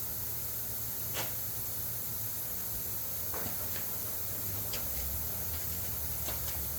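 Steady hiss with a low hum underneath, broken by a few faint, sharp clicks and taps of handling.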